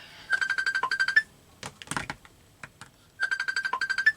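Mobile phone ringing: an electronic ringtone of rapid chirping beeps, heard twice, each ring about a second long and ending on a higher note. A few faint clicks fall between the rings.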